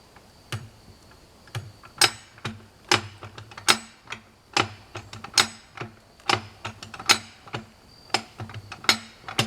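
A jack being worked stroke by stroke to lift a log, its mechanism clicking sharply about twice a second in an even rhythm.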